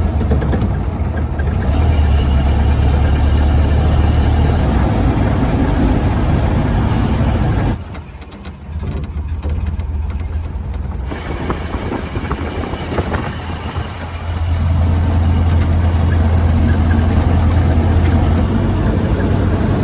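1931 Ford Model A pickup's four-cylinder engine running while the truck is driven, a steady low drone that drops away for about three seconds near the middle before coming back.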